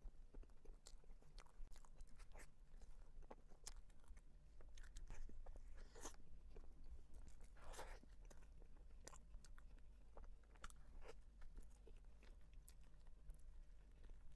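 Close-miked mouth sounds of chewing soft cream-filled bread: scattered small wet clicks, with a couple of louder moments about six and eight seconds in.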